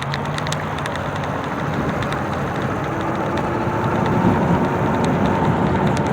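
Road vehicle driving, its engine and road noise rising steadily as it picks up speed, with a steady hum coming in about halfway through.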